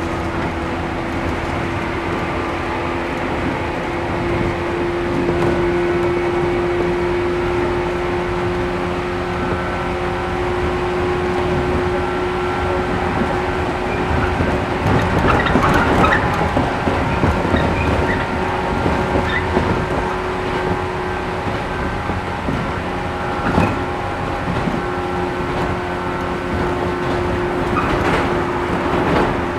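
Interior running sound of a resistance-controlled 113 series 1500 subseries electric multiple unit at a steady speed: a level hum from the traction motors and gearing over the rumble of the wheels. Clicks of wheels crossing rail joints come about halfway through and again near the end.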